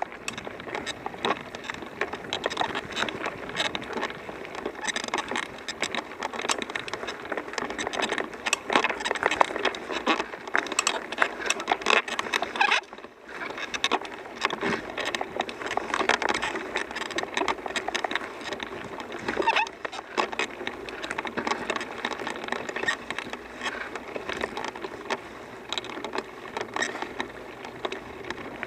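Bicycle riding: tyres rolling over the trail with a steady crackling crunch made of many small clicks, dipping briefly about halfway through.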